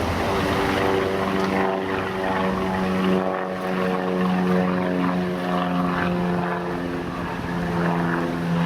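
Propeller aircraft passing over, its engine giving a steady pitched hum that sags slightly in pitch near the end.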